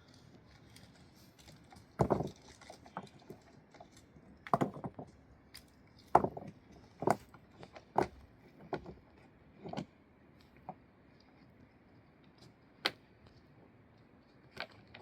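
A series of about a dozen sharp knocks and clinks of hard objects at irregular intervals, most of them in the first two-thirds, with a single louder clink near the end.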